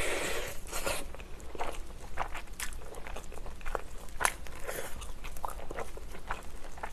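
Close-miked eating of fried chicken: a dense bite in the first second, then chewing with scattered short crunches and wet clicks.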